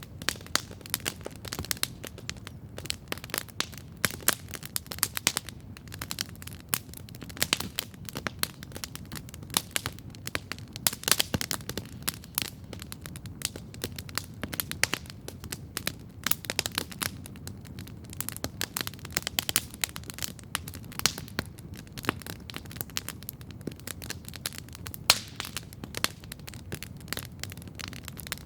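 Wood campfire crackling steadily: dense, irregular sharp pops and snaps over a low, steady rumble of the burning fire.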